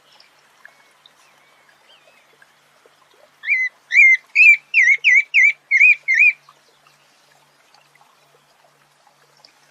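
A sabiá thrush singing: a run of about eight loud, clear whistled notes, roughly three a second, each rising then falling, starting a few seconds in after a few faint softer notes.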